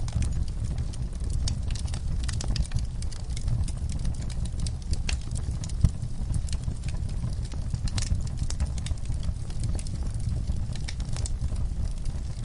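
Wood fire burning in an outdoor fireplace: a steady low rumble with frequent irregular crackles and pops of the burning logs, one sharper pop about six seconds in.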